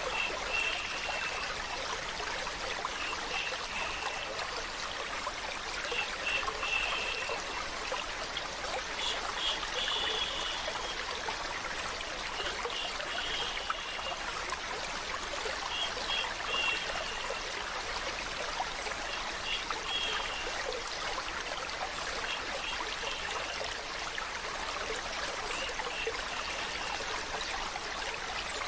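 Water flowing and trickling steadily, like a small stream, with short high-pitched notes recurring every second or two over the steady rush.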